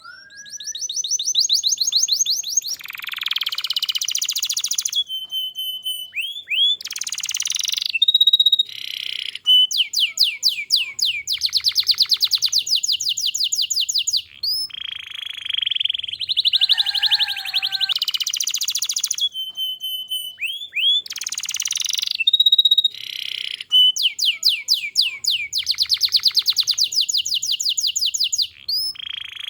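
Domestic canary singing a long, unbroken song of rapid trills of repeated notes, broken by short whistled glides between phrases.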